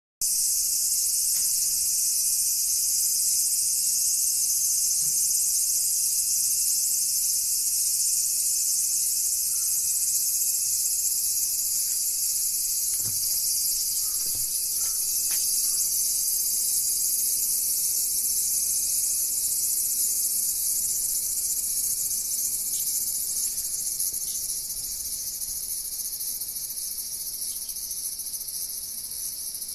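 Cicada singing: a continuous high-pitched shrill drone, growing somewhat quieter over the last several seconds.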